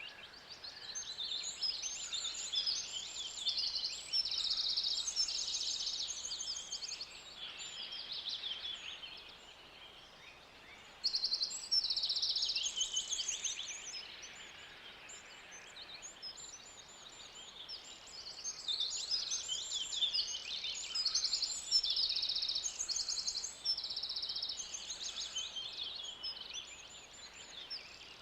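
Forest ambience: several songbirds singing over a faint steady background, with rapid trills and chirps repeated in short phrases. The chorus thins out twice and comes back, one loud phrase starting suddenly about eleven seconds in.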